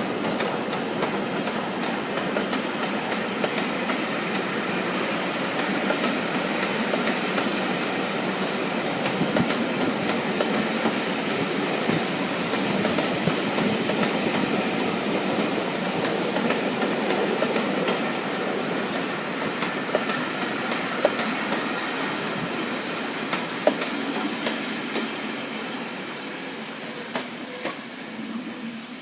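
A train passing, its wheels clattering steadily over the rails, then fading away near the end.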